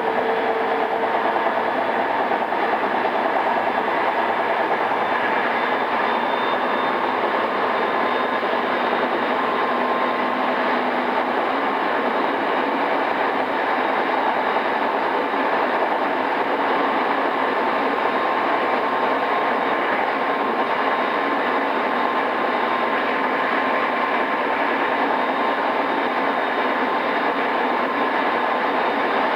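Running sound inside a JR East E217 series electric multiple unit motor car in its original, pre-refurbishment form, rolling steadily along the line. An even rail and wheel noise carries faint steady tones from the traction equipment.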